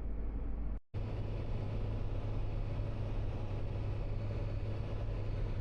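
Steady road and engine noise of a Dodge 3500 pickup driving on the highway, with a low drone. A brief dropout just under a second in, after which the drone sits slightly higher.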